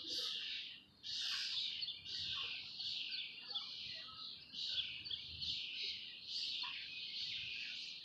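Birds calling: a near-continuous run of raspy, hissing calls, one burst after another, with a brief break about a second in.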